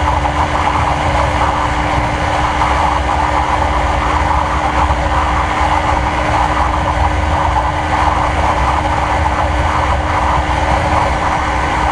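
Motorcycle fitted with a slip-on aftermarket exhaust running at a steady engine speed, its held drone under a constant rushing noise, with no revving up or down.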